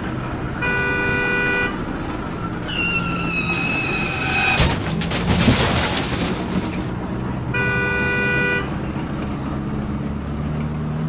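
A car horn honks for about a second, and the identical honk comes again about seven seconds later, a dubbed sound effect for a toy truck. In between, a high tone slides slightly down, then a rush of noise lasts about two seconds, over a low steady hum.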